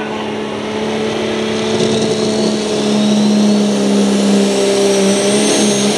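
Super stock diesel Dodge Ram pulling truck running hard under load, a loud steady engine note with a high turbo whistle rising in pitch from about two seconds in.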